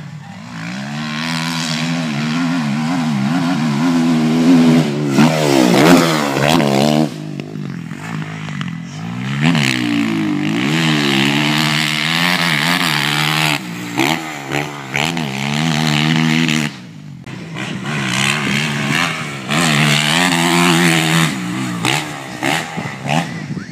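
Motocross bike engines revving, pitch climbing and falling as the riders work the throttle and shift gears. There are brief throttle drops and a short lull about two-thirds through.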